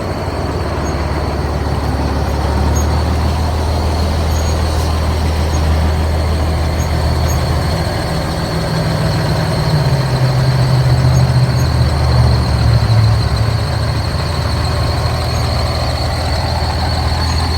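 Peterbilt semi truck's diesel engine running, its pitch rising and shifting about halfway through, with a steady high squeal over it that grows a little louder near the end.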